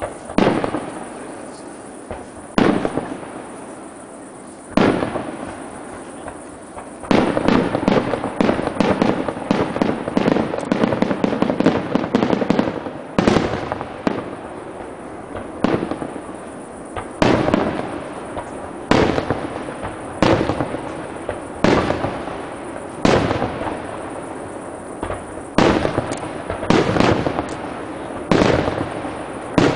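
Aerial firework shells bursting one after another, a sharp bang every second or two, each trailing off over about a second. From about seven to thirteen seconds in, the bangs come thick and overlapping with crackle between them.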